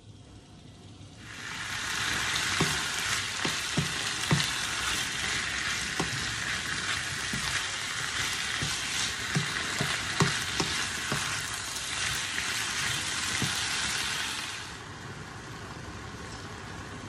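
Diced onion and chicken pieces sizzling in a hot wok, stirred with a wooden spoon that knocks and scrapes against the pan. The sizzle picks up about a second in and drops back to a quieter hiss near the end.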